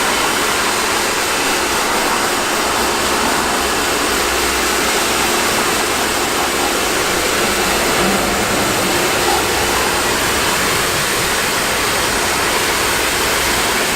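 Steady hiss of a jet of water spraying onto a car's bodywork during a rinse.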